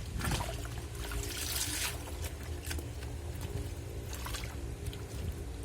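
Water trickling and splashing into a Black&Decker washing machine's tub, over a steady low machine hum.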